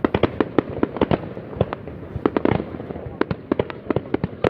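Fireworks exploding in rapid, irregular succession, several sharp bangs a second with the echo of each running into the next.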